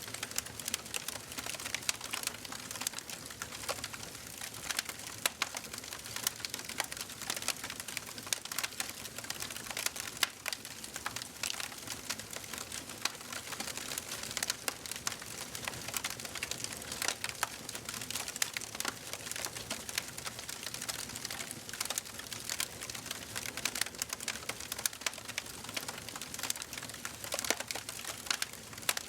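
Wood fire crackling in a fireplace: a dense, irregular run of small sharp pops and snaps over a soft steady hiss.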